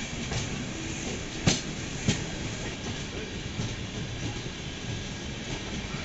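Indian Railways passenger coach running along the track with a steady rumble, and two sharp clacks from the wheels crossing the rails about a second and a half and two seconds in.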